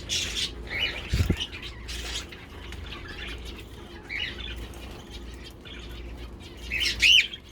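Small aviary birds, among them budgerigars, chirping on and off, with a low thump about a second in and one louder call near the end.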